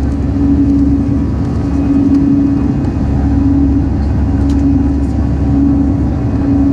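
Steady engine drone with a strong low rumble and a hum that swells and fades about every second and a half.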